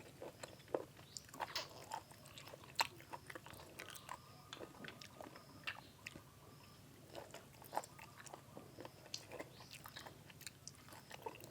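Close-up mouth sounds of someone biting and chewing crunchy boiled field snails, with irregular crisp clicks and crunches.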